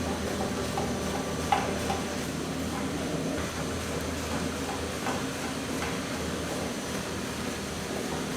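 Factory machinery running with a steady hum, with a few light knocks and clinks now and then.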